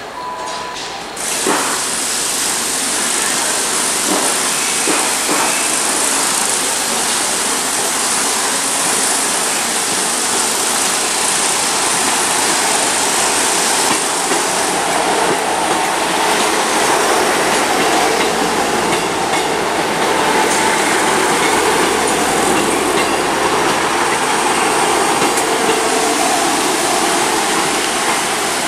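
Diesel multiple-unit train at the platform: a loud, steady hiss and engine noise that comes up suddenly about a second in and holds.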